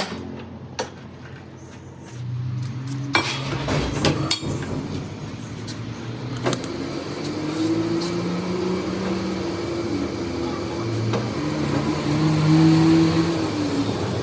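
A machine motor running, its pitch stepping up and down every second or two, with several sharp knocks in the first half.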